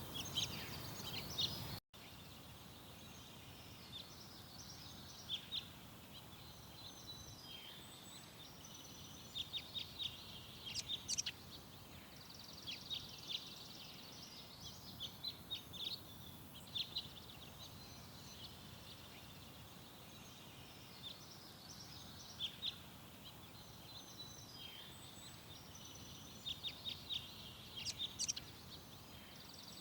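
Small songbirds chirping and calling, with many short high chirps and a few quick runs of repeated notes scattered throughout, over a steady background hiss. The sound drops out for a moment about two seconds in, and the background is quieter after that.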